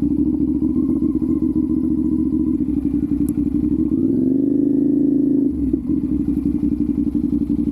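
Sport motorcycle engine running steadily. About four seconds in, the revs rise to a higher note, hold for about a second and a half, then drop back.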